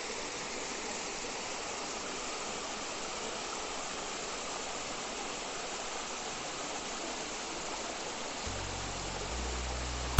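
Steady rushing of water at a waterfall, its flow low in the dry season. A low hum comes in near the end.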